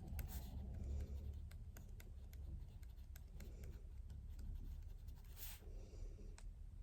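Pen writing on paper: faint, irregular small taps and scratches, with a longer scratchy stroke near the start and another near the end.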